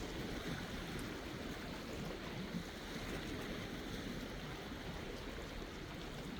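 Sea waves washing ashore in a steady, even wash of water.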